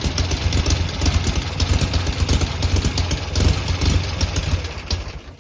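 1971 Volkswagen Beetle's air-cooled flat-four engine idling steadily with a fast, even pulse.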